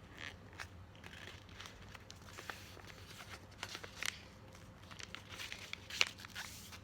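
Sheet of paper being folded and creased by hand: faint scattered rustles and crinkles, with a sharper crackle about six seconds in.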